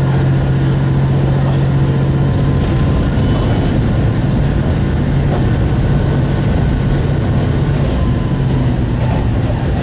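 Cabin sound of a single-car KiHa 40-series diesel railcar under way: a steady low engine drone with a strong hum, over the rumble of wheels on the track. The engine hum eases off a little about two and a half seconds in and comes back strongly later.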